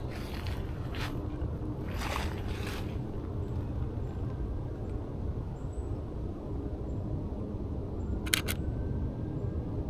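A Canon EOS RP camera's shutter fires once, a quick double click, a little past eight seconds in, over a steady low rumble. Two soft rustling swishes come near the start and at about two seconds.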